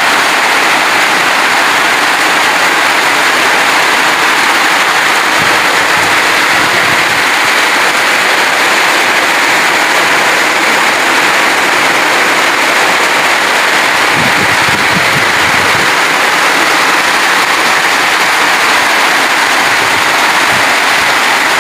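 Heavy tropical rain pouring down in strong wind: a loud, steady hiss, with brief low rumbles of wind about six and fourteen seconds in.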